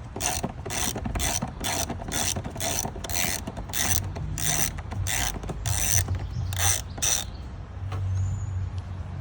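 Ratchet turning a T25 Torx screw out: a run of short ratcheting clicks, two or three a second, that stops about seven seconds in. A low hum comes in near the end.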